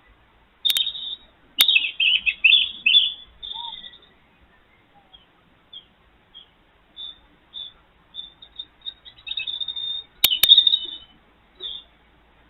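Small birds chirping and twittering in short bursts, busiest about two seconds in and again near the end, with a few sharp clicks among them.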